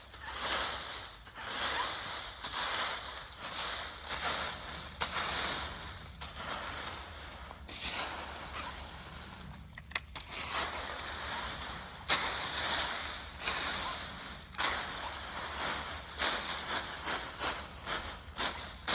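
Dry fallen leaves rustling and crunching in irregular bursts, about one every half second to second, with a brief lull about ten seconds in.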